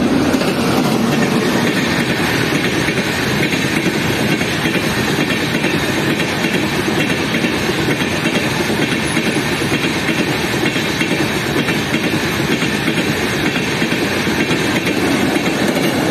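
An electric push-pull passenger train's coaches passing close by at speed: a steady loud rush of wheels on the rails, with rapid clicks all through.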